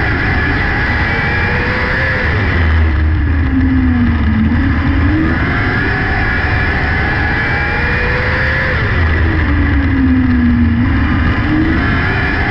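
600cc micro sprint car's motorcycle four-cylinder engine at racing speed. Its pitch climbs and then falls back twice, about every six seconds, as the car is driven hard down the straights and eased through the turns of a small dirt oval.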